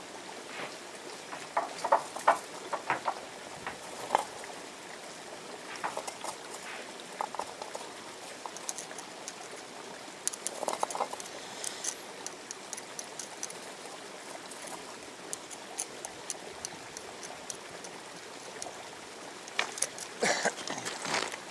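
Scattered crunches and clicks of wet sand and gravel being dug with a small hand scoop, over the steady rush of a shallow river.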